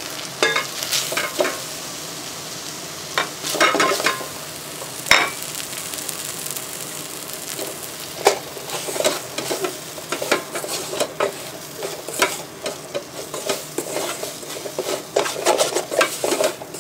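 Chopped onion, pepper and garlic sizzling in hot oil in the metal inner pot of a rice cooker, with dry spices just stirred in. A wooden spatula stirs and scrapes against the pot, making irregular taps and scrapes over the steady sizzle.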